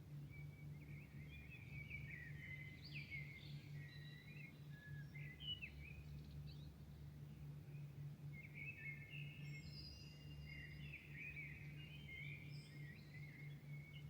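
Songbird singing a faint, varied warbling song of quick sliding notes, in two long phrases starting about a second in and again around seven seconds in, over a steady low hum.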